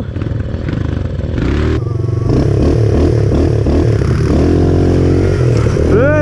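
Pit bike engine running under throttle as it is ridden, revving up and down repeatedly, with some clatter.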